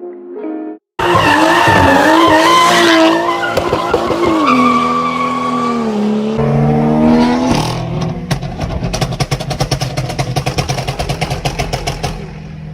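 A performance car's tyres squealing over its hard-revved engine, then the engine running at lower revs with a rapid, regular burble.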